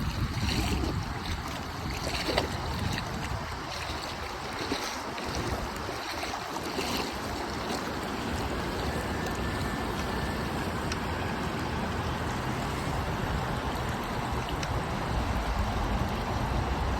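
Steady rush of river rapids, with wind buffeting the microphone in the first few seconds.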